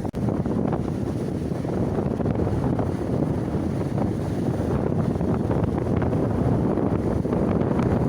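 Strong wind buffeting the microphone, a dense, steady low rumble. It drops out for an instant just after the start.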